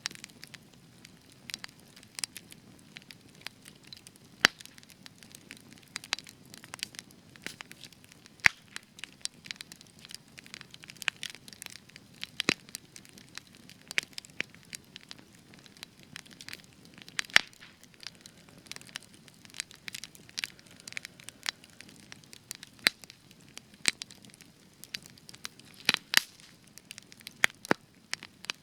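Spruce wood burning in a campfire, crackling with irregular sharp pops and snaps over a faint low hiss of the flames; a few pops stand out louder than the rest.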